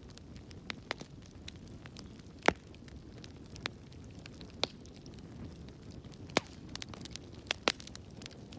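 Wood fire burning in a fireplace, with a low steady rumble and irregular sharp crackles and pops, the loudest about two and a half seconds in and twice more near the end.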